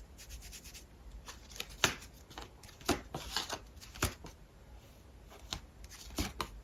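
Tarot cards being handled, a soft rustling broken by a few sharp card snaps, the loudest about two seconds in.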